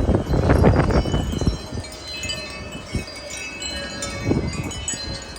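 Wind chimes ringing in strong gusting wind. Wind buffets the microphone for the first second and a half, then the chime tones ring out more clearly over it.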